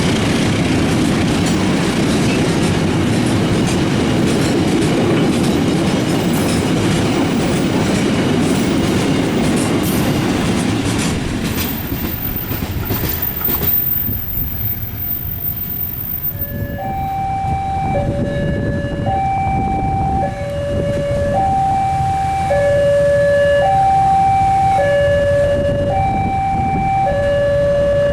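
A train passing with a loud rumble and wheel clatter that fades out about halfway through. About seventeen seconds in, a two-tone warning signal starts, alternating steadily between a high note and a low note, each held about a second.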